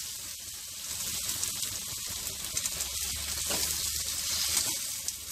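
Chopped onion and tomato sizzling in hot oil in a pan, stirred with a spatula, with a few faint scrapes.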